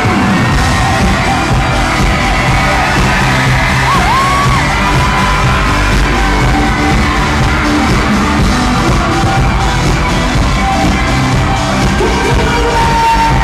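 Loud amplified live pop music heard from the audience, with fans screaming and singing along.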